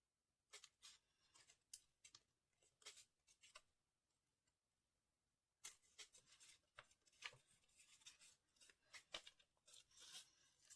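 Paper being handled and folded: faint crisp rustles and crinkles, stopping for about two seconds in the middle, then denser rustling.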